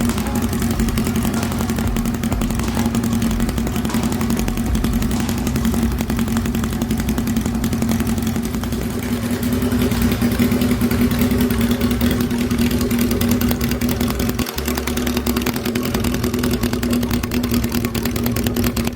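Kawasaki Z1-R's air-cooled inline-four engine running steadily through a straight pipe: a stainless hand-bent exhaust with its silencer removed.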